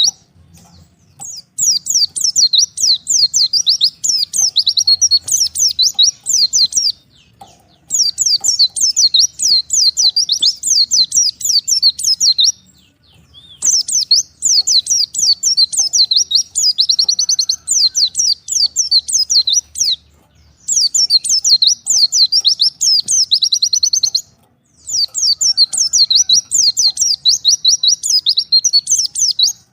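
White-eye (pleci, Zosterops) singing long, fast twittering phrases of rapidly repeated high, down-slurred notes, with short pauses of about a second between phrases. It is a bird calling out to a rival.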